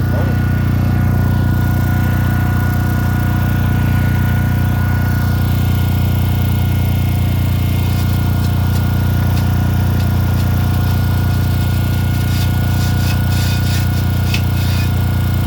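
Core drill running steadily under load, a loud even hum as the bit grinds into brick; from about twelve seconds in, a scatter of short scraping ticks joins it.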